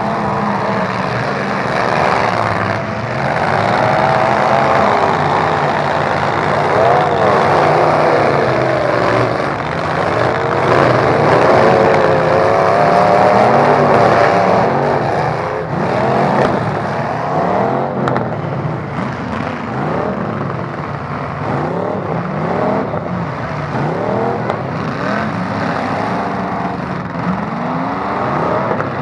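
Several demolition-derby truck engines revving up and down over one another, their pitches rising and falling again and again.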